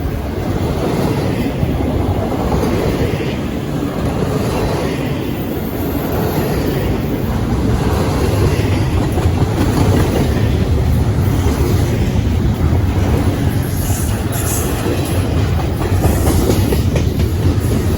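A long CSX freight train's cars rolling past with a steady rumble and wheels clattering over the rail joints. Brief high-pitched wheel squeals come in near the end.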